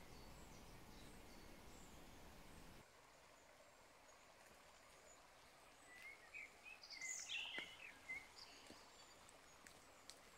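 Near silence with faint woodland birdsong: a short run of high chirps and twitters about six to eight seconds in.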